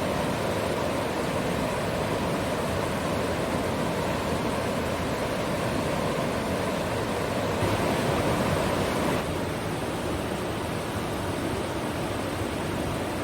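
Steady rush of river water over rapids or a waterfall, an even roar that drops a little in level about nine seconds in.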